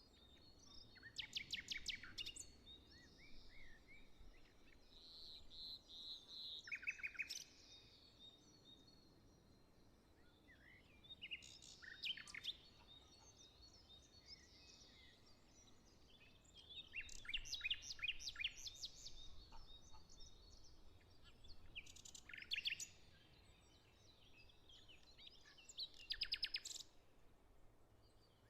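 Songbirds singing outdoors: short, fast trilled and chirping phrases that come every few seconds, over faint background noise.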